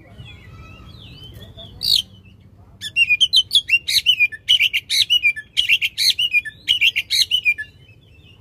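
Oriental magpie-robin (kacer) singing loudly. A single sharp note comes about two seconds in, then about five seconds of rapid-fire notes, several a second, a long 'tembakan' burst, which stops shortly before the end.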